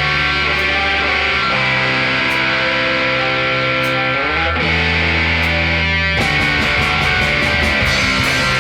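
Rock band playing: distorted electric guitar chords held and changed, with a glide up in pitch about four seconds in. A busier run of cymbal strikes comes in about six seconds in.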